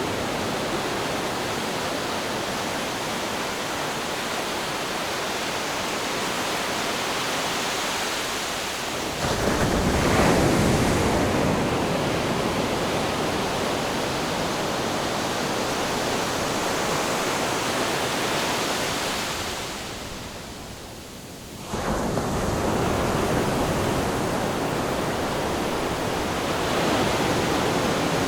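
Ocean waves washing onto shore in a steady rushing surf, with a wave breaking louder about ten seconds in. Near the two-thirds mark the rush fades briefly, then comes back abruptly.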